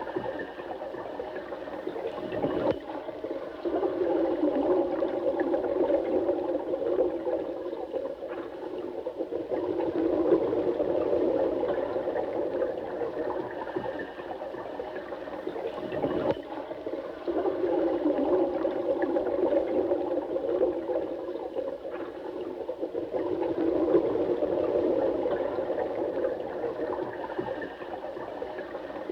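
Running water, a continuous rushing and gurgling flow that swells and eases every several seconds.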